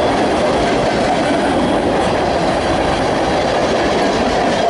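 Freight train rolling past at speed: a steady, loud rumble and clatter of steel wheels on the rails.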